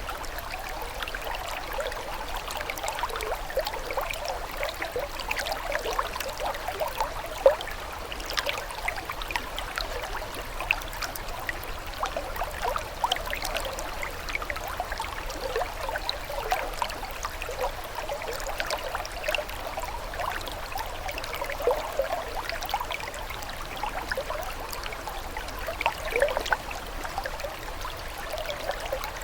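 Running water trickling and babbling steadily, with many small splashes and gurgles.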